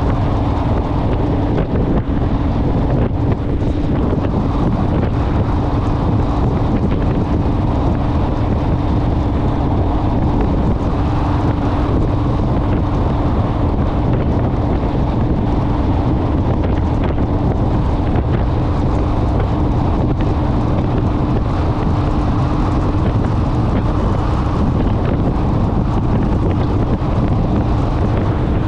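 Heavy wind rushing over the microphone of a moving motorcycle, with a steady engine drone at an even cruising speed.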